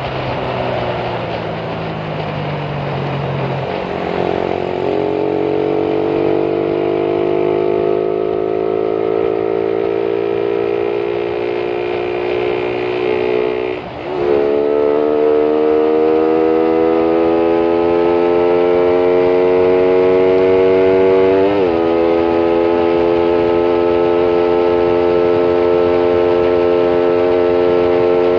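Motorcycle engine pulling hard under full acceleration, its note climbing steadily through each gear, with sudden drops in pitch at the upshifts a few seconds in, about halfway through and again about three-quarters through. Wind and road noise rush underneath.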